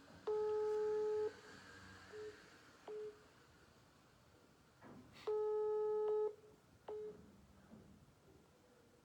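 Telephone ringback tone through a phone's speaker: a single steady tone sounding for about a second, twice, about four seconds apart, with a few short pips of the same tone between. The called line is ringing and nobody answers.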